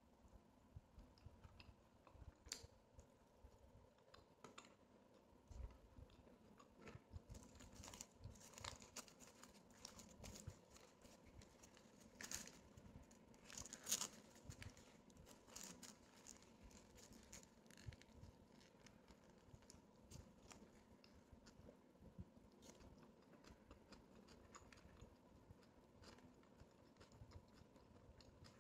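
Faint chewing and crunching of French fries, with a stretch of crackling from a shawarma roll's paper-and-plastic wrapper being peeled back about halfway through.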